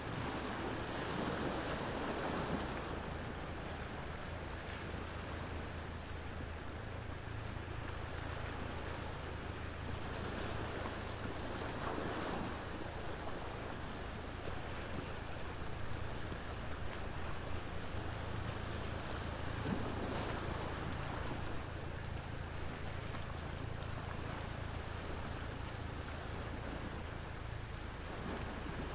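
Ocean waves washing onto shore over a low, steady rumble, swelling near the start and again about 12 and 20 seconds in, with a few faint crackles from a bonfire.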